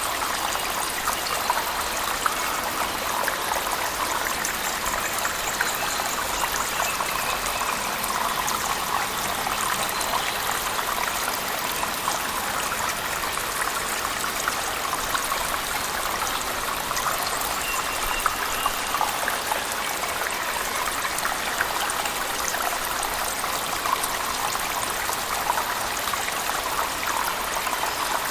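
Cave waterfall mixed with heavy rain: a steady rush of falling water, dotted with many small drop splashes.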